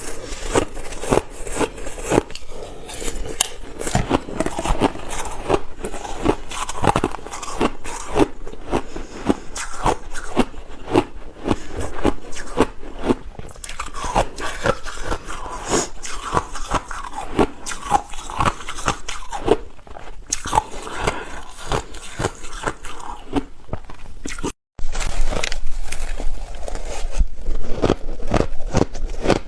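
Ice being bitten and chewed close to the microphone: dense, irregular crunching throughout. It breaks off for a moment about 25 seconds in and resumes a little louder.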